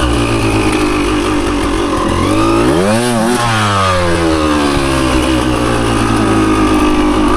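Dirt bike engine running at low revs, revving up sharply about two and a half seconds in and dropping back down over the next second or so, then running steadily again.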